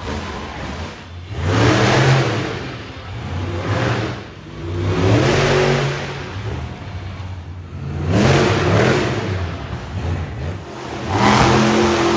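Monster truck engine revving hard in repeated surges, the pitch climbing and falling about four times as the throttle is opened and closed.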